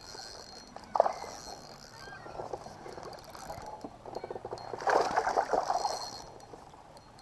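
Landing a smallmouth bass beside a kayak: a sharp knock about a second in, then a loud burst of rapid, irregular splashing and rattling about five seconds in as the fish thrashes.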